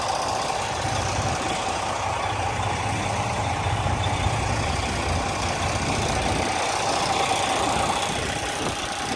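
Semi truck's diesel engine running at low speed while the rig reverses. A low rumble swells about a second in and eases near the end, over a steady hum.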